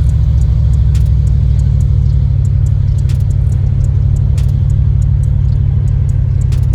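Car engine and exhaust running steadily while the car is driven: a loud, deep, unchanging rumble, with a few faint clicks over it.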